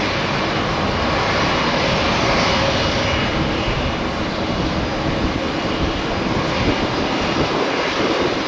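Boeing 787 Dreamliner's jet engines at take-off thrust: a steady, loud roar with a few faint steady tones in it.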